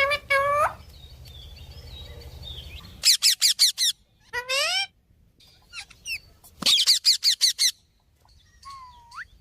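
Pet parakeet calling: rising squawks, two quick runs of six or seven sharp chirps, and a short rising whistle near the end.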